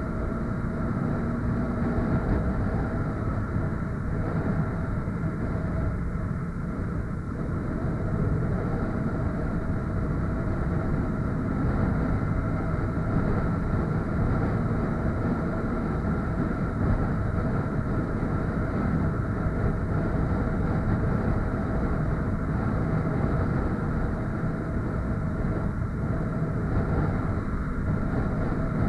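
Motorcycle engine running at a steady speed on the move: a constant engine hum under a heavy, even low rumble.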